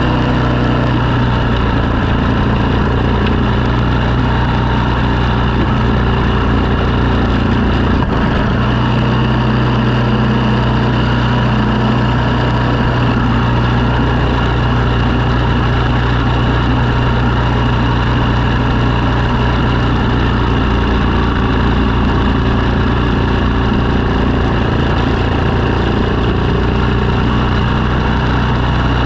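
A snow-clearing machine's engine running steadily, its hum shifting slightly a couple of times.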